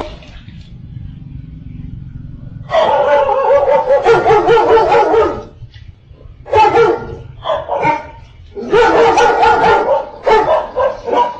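A dog barking and yipping in three long runs of rapid, pitched calls with short pauses between them.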